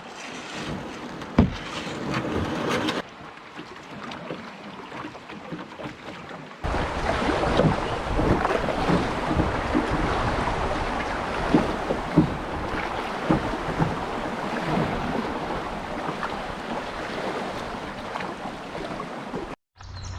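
Canoe on the river: water rushing and splashing around the hull, with wind on the microphone and a few sharp knocks. The sound changes abruptly about three seconds in and turns louder a little after six seconds, then cuts off suddenly near the end.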